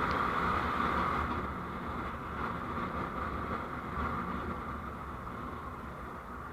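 Steady road and engine noise of a vehicle on the move, picked up by a dashcam microphone, easing off slightly over the stretch.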